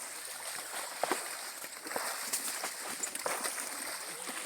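Faint water sloshing with a few light splashes and knocks.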